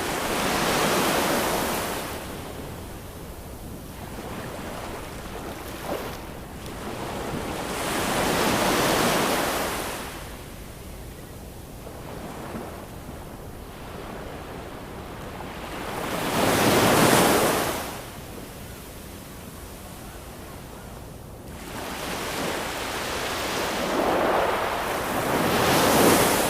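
Ocean waves breaking on a shore: four swells of hissing surf, each rising and falling away over a few seconds, the third and last the loudest, over a steady low rumble of the sea.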